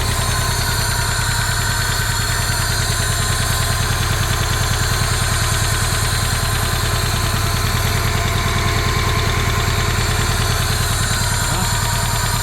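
Honda Civic's inline four-cylinder engine idling steadily on its first run after one piston was replaced with a junkyard piston.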